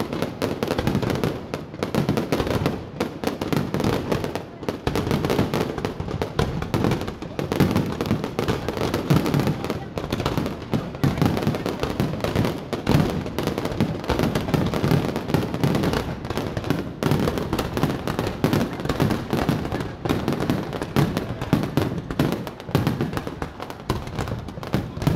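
Aerial fireworks display: a continuous barrage of overlapping bangs and crackles with no break.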